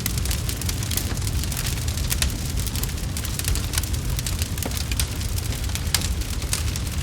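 Wood fire crackling and popping in a fireplace, many sharp irregular snaps over a steady low rumble of flame.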